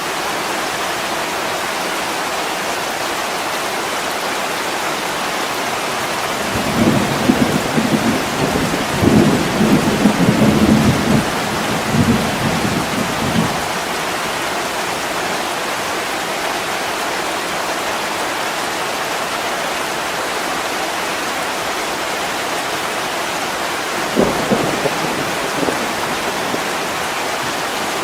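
Heavy rain pouring steadily on a window, with a rolling rumble of thunder from about seven to thirteen seconds in and a shorter, fainter rumble near the end.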